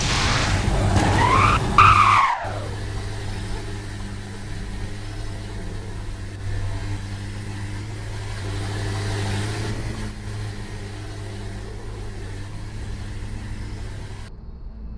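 A car engine revs sharply up and back down in the first two seconds or so, then runs with a steady low rumble.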